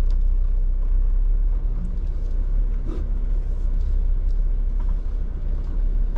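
Jeep rumbling low and steady as it crawls slowly over a rocky trail, heard from inside the cab, with a few light knocks and rattles from the vehicle.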